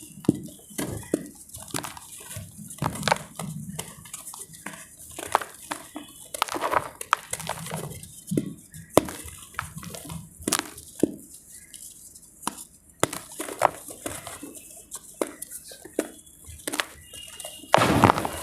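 Dry multani mitti (fuller's earth clay) crumbling and cracking: irregular sharp snaps and crunches, some with a duller thud beneath.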